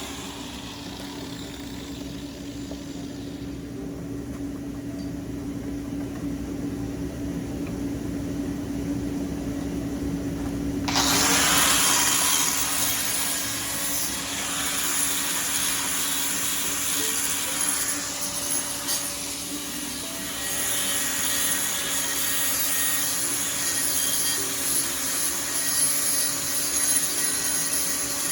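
Angle grinder grinding metal. It runs lower and duller at first, then about eleven seconds in it turns suddenly louder and hissier as the wheel bites harder, and keeps grinding with small changes in pitch.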